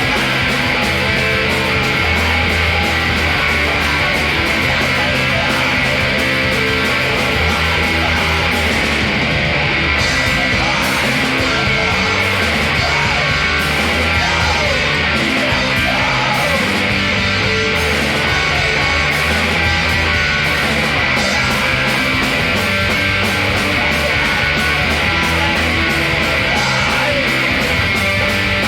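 A rock band playing a loud, dense track, led by electric guitars over bass and drums.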